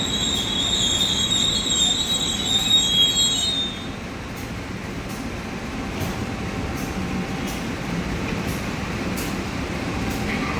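Train wheels squealing against the rails with a high, ringing pitch for about the first four seconds, then the steady rumble of the train running on, with faint repeated clicks.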